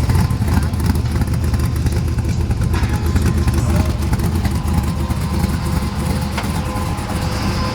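A vehicle engine running steadily nearby, a continuous low rumble.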